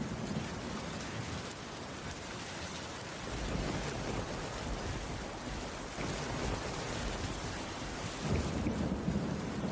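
Steady rainfall, an even hiss throughout. A low rumble of thunder fades out at the start and swells again near the end.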